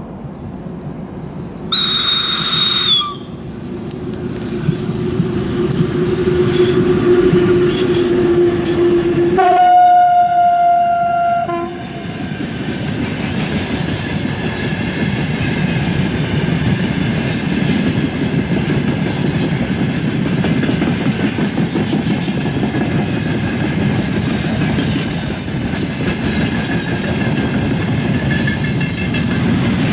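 VL10U electric locomotive approaching and passing with a freight train: a short high horn blast about two seconds in, a growing run of the locomotive, then a lower horn blast of about two seconds around ten seconds in. After it the freight wagons roll by steadily with rail clatter.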